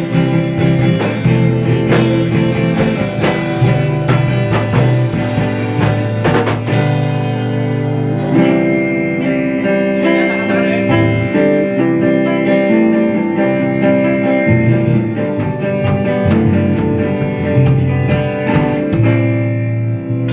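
Instrumental music led by guitar over a band backing, with drum hits through the first several seconds and held chords after.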